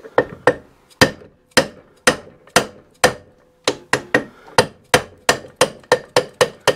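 Hammer striking metal parts of a Simson S51 engine being taken apart: a steady series of sharp blows, about two a second, quickening near the end, with a brief ringing tone between some of them.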